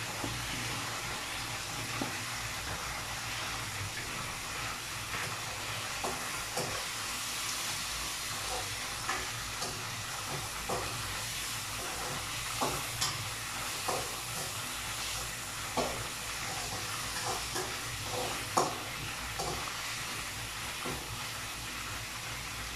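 Chicken frying in a wok on a gas stove: a steady sizzle, with a utensil scraping and knocking against the wok at irregular moments as it is stirred.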